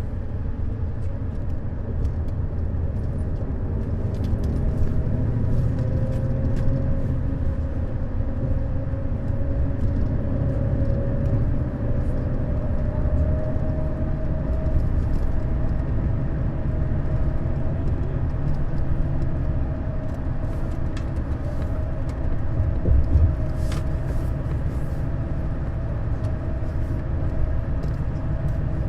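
Neoplan Skyliner N 1122/3C double-deck coach under way: steady engine and road rumble, with a faint whine that climbs slowly over the first half and then holds. A few light clicks and knocks come near the end.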